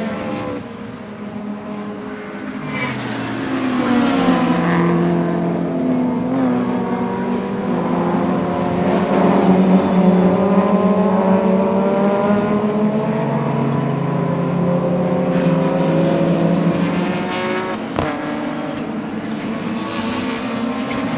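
Audi 200 Turbo Quattro's turbocharged 2.2-litre five-cylinder engine under racing load, its pitch climbing and dropping back several times as it pulls through the revs and shifts. There are brief high hissing bursts from the turbo a few seconds in.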